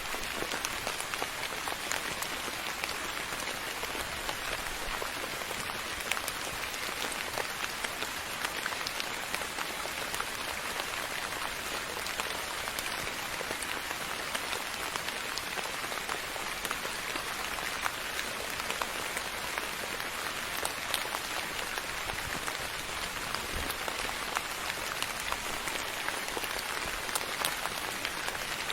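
Steady soft rain falling, an even hiss with many small drops pattering on a surface.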